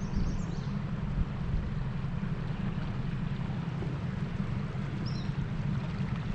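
Small fishing boat's outboard motor running steadily under way, a constant low drone with wind and water noise over it.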